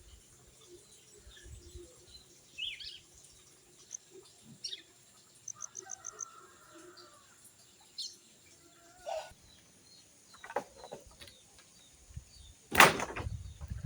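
Scattered bird chirps and short calls, with a quick run of high ticks about five seconds in. Near the end there is a single sudden loud noise.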